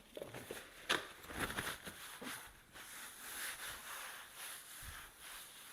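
Kitchen handling noises: a sharp click about a second in, then steady rustling and light scraping as ingredients and containers are moved on the counter.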